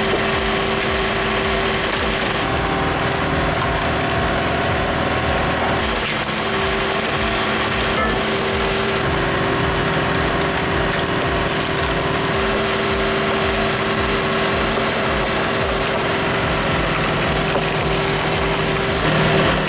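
Hydraulic log splitter running under engine power, a steady drone with wood crushing and splintering as logs are forced apart.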